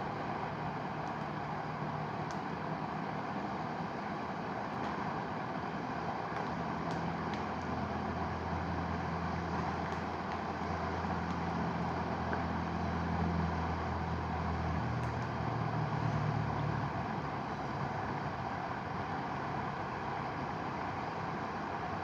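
Steady rushing of a mountain river. A low drone swells from about eight seconds in and fades out a little after the middle. A few faint clicks sound now and then.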